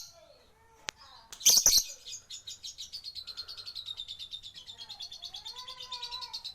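Lovebird 'ngekek' song: a long, fast, unbroken chattering trill of high notes, about ten a second, starting about two seconds in after a sharp click and a loud short screech.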